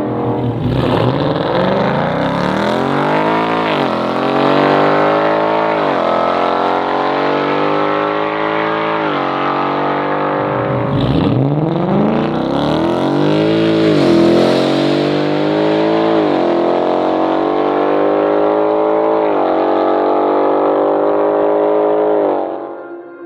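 Ford S650 Mustang GT's 5.0-litre V8 through an AWE stainless catback exhaust, pulling hard: the engine note sweeps up and falls back several times as it revs and shifts, with deep drops in pitch shortly after the start and about eleven seconds in. It then holds a steadier note and stops just before the end.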